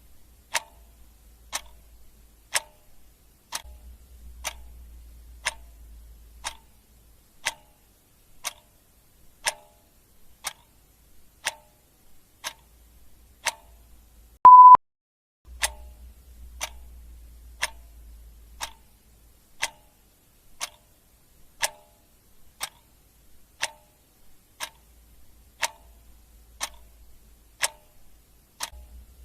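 Clock ticking steadily, about one tick a second. About halfway through, a single short electronic beep sounds, louder than the ticks.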